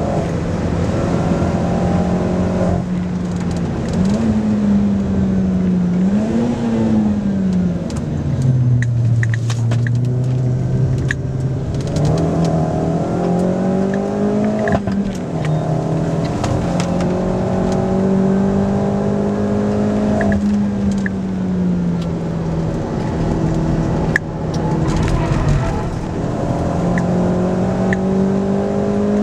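Opel Corsa OPC's turbocharged 1.6-litre four-cylinder engine under hard driving, heard from inside the cabin, its note rising and falling with throttle and gear changes. The revs drop lowest about a third of the way in, then climb again.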